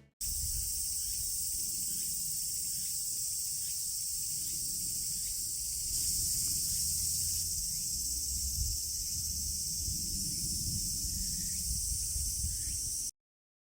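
A chorus of summer insects shrilling steadily, with a low rumble beneath and faint short chirps, cutting off suddenly near the end.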